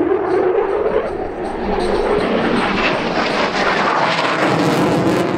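Military jet aircraft flying past low, a loud engine rush whose pitch falls during the first second, then swells again toward the end.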